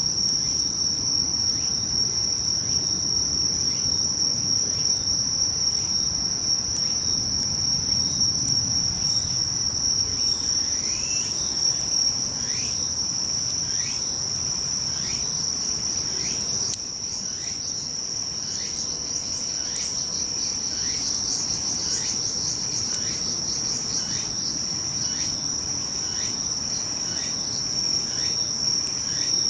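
Crickets calling: one steady, unbroken high trill, joined from about a third of the way in by a second insect's short rising chirps, a little more than one a second.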